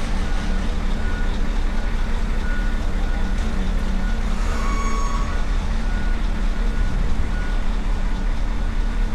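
Heavy vehicle engines running with a steady low rumble, while a reversing alarm beeps in short repeated tones. A brief higher tone sounds about five seconds in.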